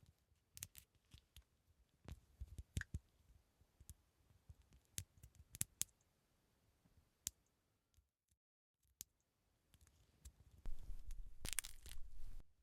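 Close-miked ASMR scalp and hair handling sounds: scattered soft clicks and taps, a brief dropout past the middle, then a louder rustling scratch lasting about two seconds near the end.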